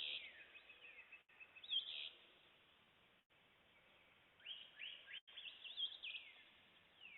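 Faint songbird song at dawn: short high chirping and looping phrases at the start, about two seconds in, and again from about four and a half to six seconds in, with quiet gaps between.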